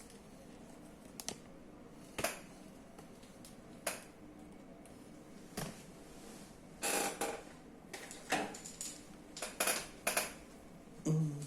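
Irregular clicks and knocks of hard plastic parts being handled and snapped into place on an inkjet printer. They come as scattered single clicks at first and as a quicker run of knocks from about two-thirds of the way in.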